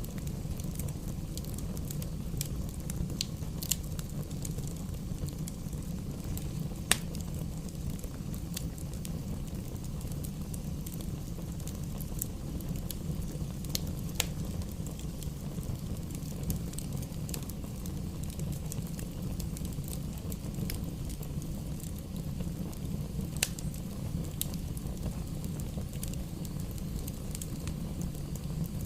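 Fire burning in a fireplace: a steady low rumble of the flames with scattered crackles and pops, the sharpest pop about seven seconds in.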